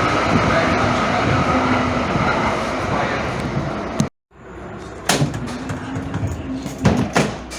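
Calgary Transit light-rail train running, a loud steady rumble with a faint hum, which stops abruptly about four seconds in. After it, a quieter background with a few sharp knocks near the end.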